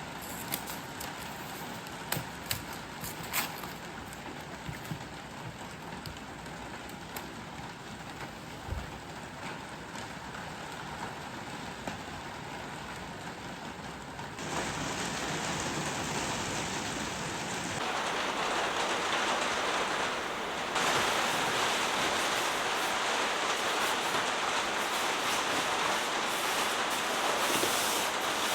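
Heavy rain falling on the hut roof, a steady hiss with a few sharp ticks in the first half, growing louder in sudden steps from about halfway through.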